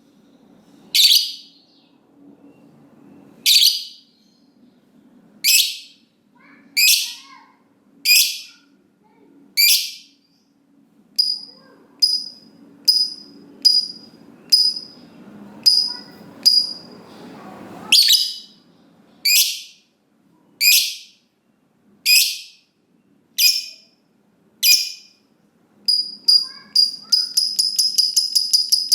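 Lovebird giving loud, shrill single calls about once every second and a half, with a stretch of quicker, thinner calls in the middle. Near the end it breaks into a fast, continuous chattering trill, the long 'ngekek' that keepers prize.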